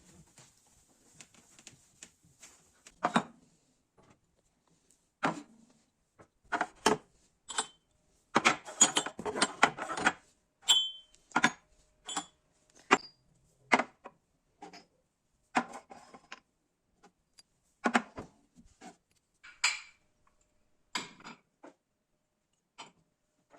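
Hard household objects being handled and set down: separate knocks, taps and clinks, with a busy stretch of rapid clattering near the middle.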